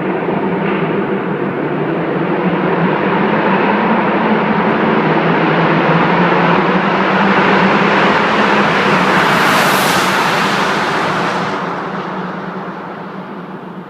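BMW F30 328i with an aftermarket performance rear silencer, its exhaust running loud in a tunnel. There is a brief high hiss about ten seconds in, and the sound fades over the last couple of seconds.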